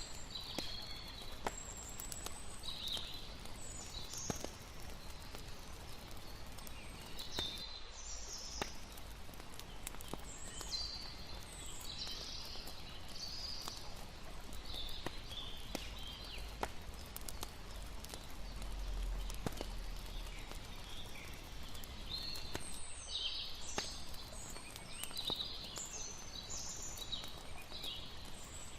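Layered night ambience: a steady wash of flowing water, sparse sharp crackles of a campfire, and clusters of short, high chirping calls.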